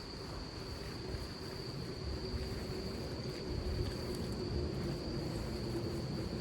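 Low rumble of wind and rain in a storm, with a steady high-pitched trill, insect-like, held unbroken over it.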